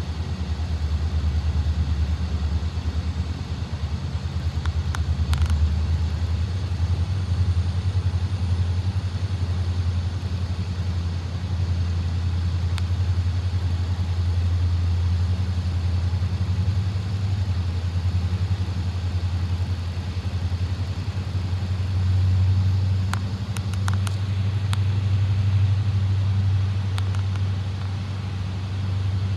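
Diesel-electric locomotive engine running with a steady low rumble, with a few short sharp clicks about five seconds in and again near the end.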